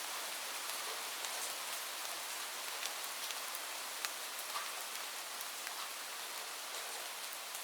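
Light rain falling steadily, an even hiss with scattered individual drops tapping close by.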